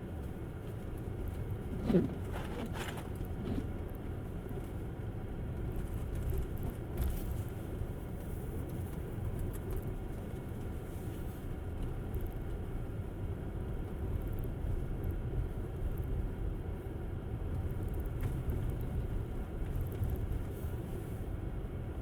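Steady low rumble of a Tesla Model S's tyres on a snowy road as the electric car drives, with a short squeak about two seconds in.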